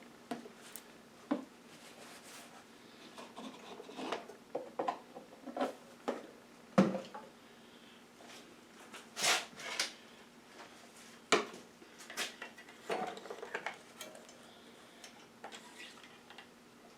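Intermittent clinks, taps and brief scrapes of objects being handled at a small engine's oil fill: oil bottle, funnel and dipstick. A faint steady hum runs underneath.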